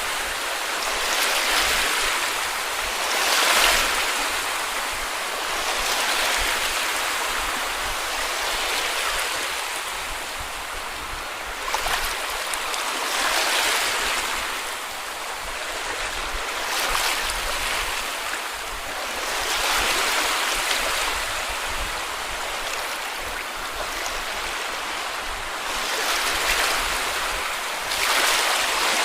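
Sea waves breaking and washing up a beach: a continuous hiss of surf that swells with each wave every two to four seconds.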